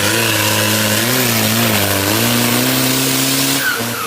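4x4 truck engine revving hard under load, its pitch wavering up and down, with a strong hiss over it. Near the end the revs drop and a high whistle starts falling.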